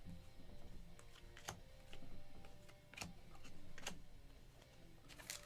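Light, scattered clicks and taps of trading cards being handled and laid down onto piles, with three sharper clicks among several softer ones.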